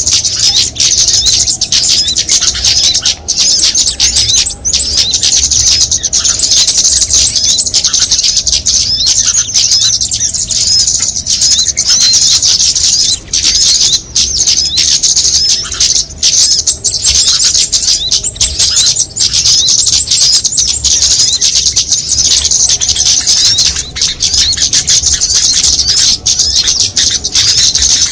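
A bird-lure recording of many small songbirds calling at once: a dense, unbroken chatter of rapid high-pitched chirps and twitters, the kind of mixed call track played to draw small birds in.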